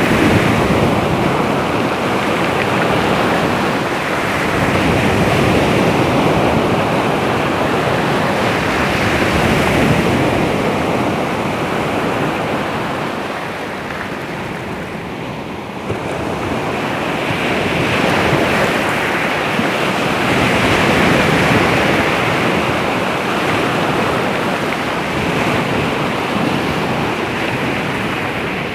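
Baltic Sea surf washing onto the shore, swelling and easing in slow surges, with a quieter lull about halfway through.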